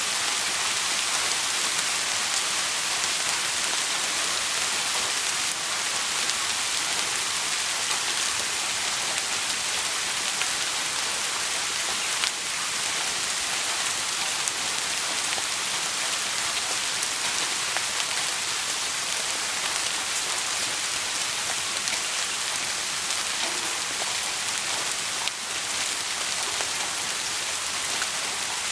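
Steady rain falling in a dense, even hiss.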